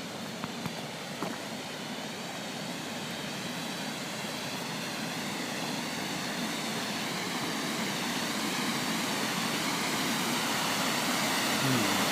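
River rapids rushing, growing steadily louder, with a few faint clicks about a second in.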